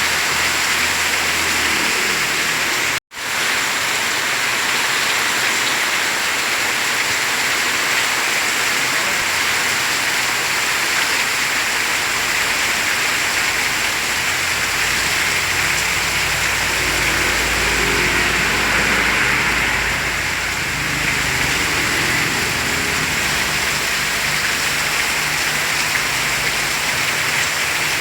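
Heavy rain falling in a steady, dense hiss. It drops out for a split second about three seconds in, and a low rumble swells under it about halfway through.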